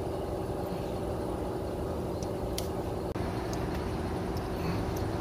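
Steady low mechanical drone, like an engine running, with a few faint clicks over it.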